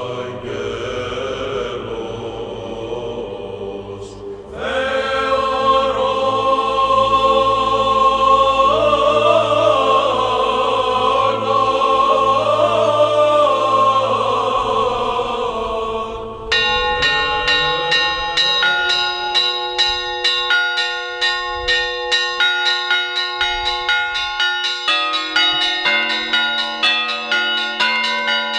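Byzantine chant sung by a choir, a steady held drone under a slowly winding melody. About sixteen seconds in it gives way to church bells rung in a quick, repeating pattern of strikes.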